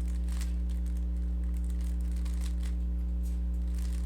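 Rubik's cube being turned quickly through an OLL algorithm, its plastic layers clicking and rattling in quick irregular runs, over a steady low electrical hum.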